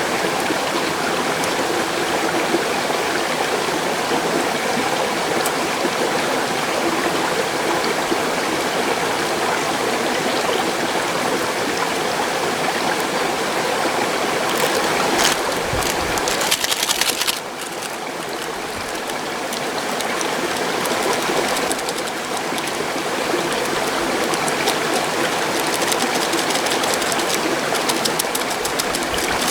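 Mountain stream rushing steadily. A little past halfway the sound briefly drops and thins, then builds back.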